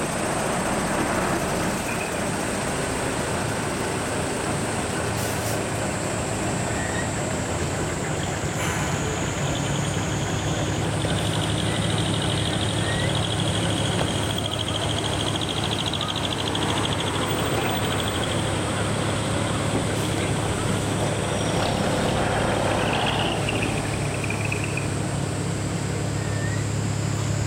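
Hino ZM dump truck's diesel engine running steadily through its smokestack muffler, a low even note that grows stronger about ten seconds in.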